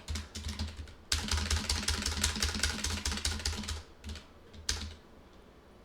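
Typing on a computer keyboard: a few light keystrokes, then a quick run of rapid keystrokes from about a second in to nearly four seconds, and one more keystroke near the end.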